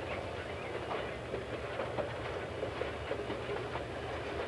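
Freight train rolling along the track: a steady rumble with faint, irregular clicking of wheels over rail joints.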